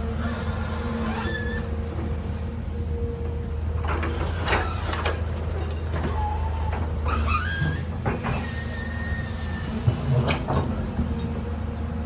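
A heavy machine's engine running at a steady low hum, with short metallic squeals and clanks about four, seven and ten seconds in.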